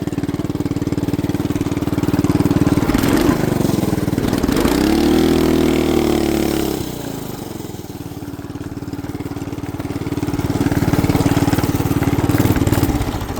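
Small 212cc single-cylinder engine of a bike idling, revving up and falling back about four to seven seconds in, then picking up again near the end. It is running with no rider aboard, an engine that has not wanted to stay running.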